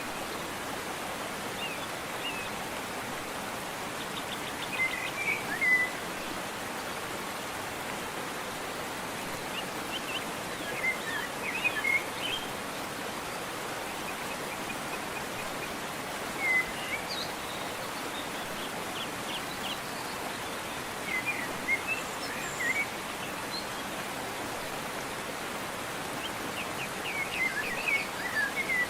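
Steady rush of a waterfall, with a songbird singing short chirping phrases every few seconds over it.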